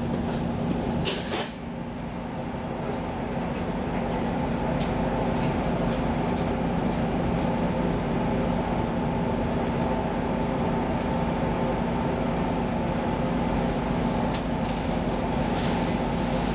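X10 electric commuter train running, heard from inside the car: a steady rumble of wheels on rails with a constant low hum. A single sharp click sounds about a second in.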